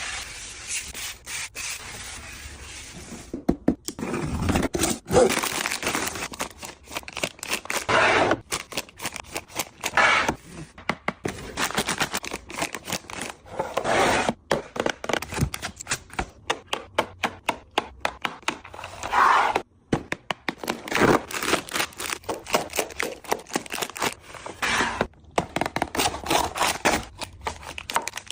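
Many quick clicks, knocks and scrapes with bursts of rustling, as food packages and containers are handled and set down.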